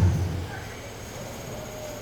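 A man's voice finishes a word, then a pause filled only by faint, steady background noise.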